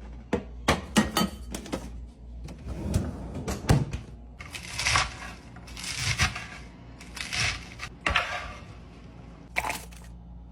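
Kitchen food-prep sounds: a run of sharp knocks and clatter, then four or five crunching, rustling strokes about a second apart as salad ingredients are handled.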